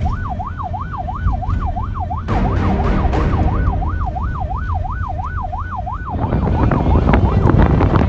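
Emergency-vehicle siren wailing in a fast up-and-down sweep, about two and a half cycles a second, over a vehicle's low rumble. About six seconds in, a loud rush of wind and engine noise covers it and the siren fades.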